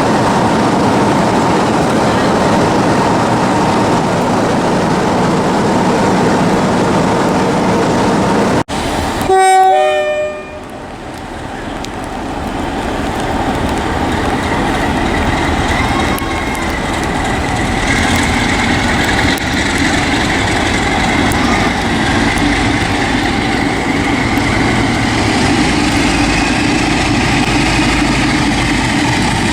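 A train running with steady rail noise, then after a cut a short horn sounds about nine seconds in, followed by a locomotive's engine and train noise building up steadily.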